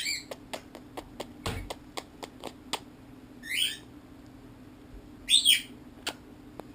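Pet bird giving three short, squeaky chirping calls, at the start, in the middle and near the end, with a quick run of sharp clicks or taps in between, over a faint steady low hum.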